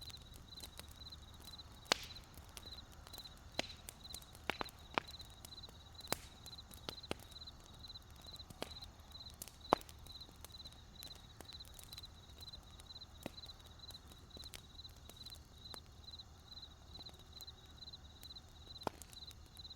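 Wood campfire crackling, with scattered sharp pops, the loudest about two seconds in and near the middle. Underneath, a cricket chirps steadily, about three chirps a second.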